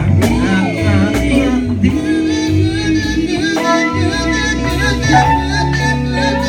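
Gospel music: sung vocal lines over sustained organ-like chords and bass.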